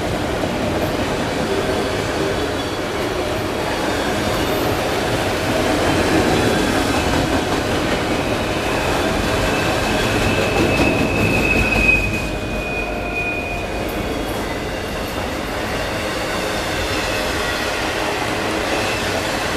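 Freight train of enclosed autorack cars rolling past, steel wheels running steadily over the rails. About halfway through, a high wheel squeal rings out for a few seconds.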